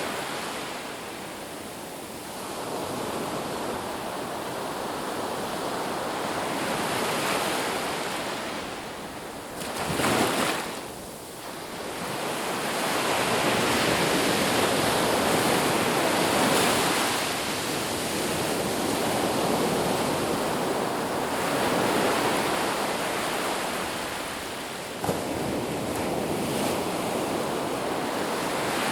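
Ocean surf breaking on a beach, the wash of the waves swelling and ebbing every few seconds, with one short, louder surge about ten seconds in.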